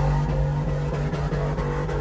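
Truck engine held at steady high revs during a line-lock burnout, the pitch staying level with faint regular ticks over it.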